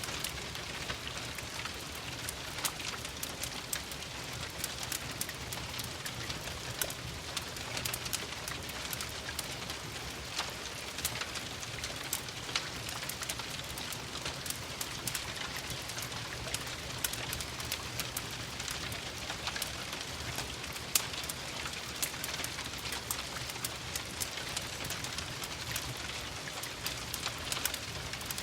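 Steady rain falling on a surface, mixed with a crackling wood fire: a constant hiss with frequent sharp pops and ticks, one louder pop about two-thirds of the way through.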